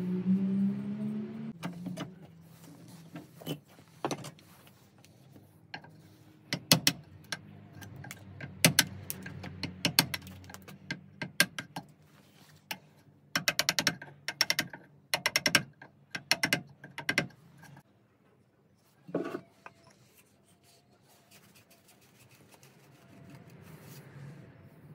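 Scattered sharp metallic clicks and knocks from tools and saw parts being handled, with three quick runs of rapid clicking about two-thirds of the way through. A rising tone fades out in the first second or so.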